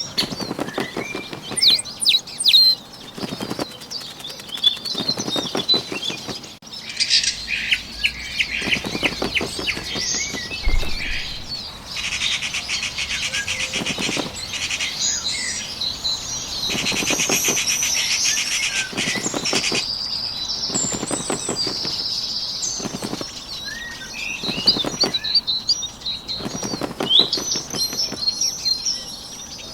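Bird wings flapping in short fluttering bursts every one to three seconds, with small birds chirping over them.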